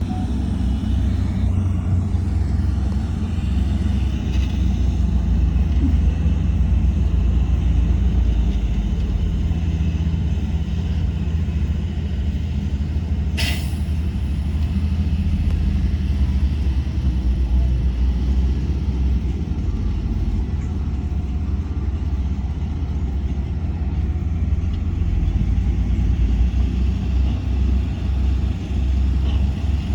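Heavy diesel earthmoving machinery running steadily with a deep rumble, and a single sharp crack about halfway through.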